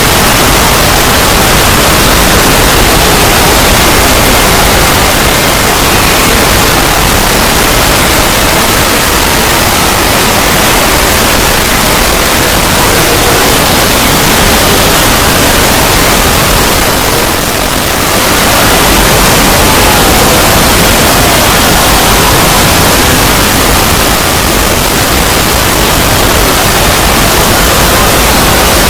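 Loud, steady static hiss of white noise filling every pitch, with a brief slight dip about seventeen seconds in.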